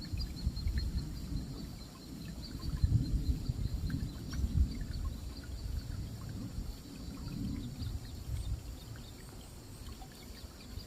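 Outdoor ambience: an uneven low rumble that swells and fades, with faint high chirps repeating steadily throughout.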